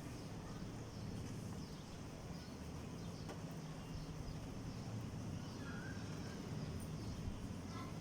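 Steady low background rumble with a few faint, short bird chirps in the second half.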